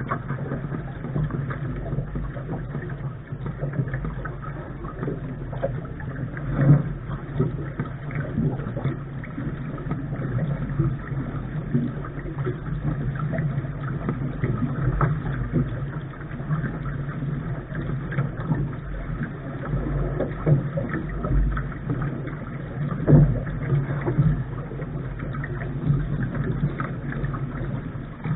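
Steady low rumble of wind and water noise picked up by a camera on the bow of a Lark sailing dinghy under way. There are two louder knocks, about seven seconds in and again near the end of the third quarter.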